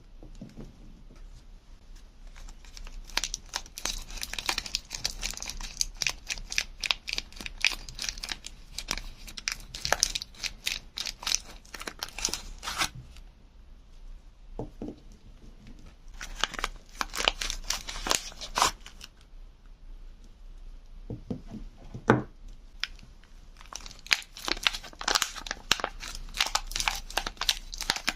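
Soap wrapping being torn open and crinkled: dense runs of crackling and tearing in three stretches, with a few single soft knocks in the quieter gaps between them.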